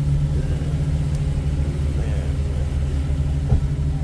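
A vehicle engine idling steadily, with a short knock about three and a half seconds in.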